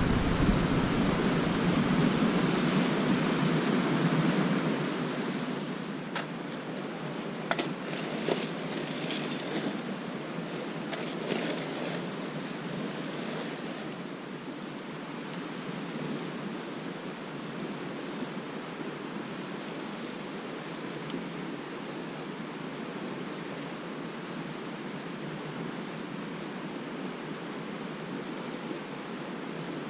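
Steady outdoor noise of wind and small lake waves, louder for the first five seconds, with a few faint clicks and knocks between about six and thirteen seconds in.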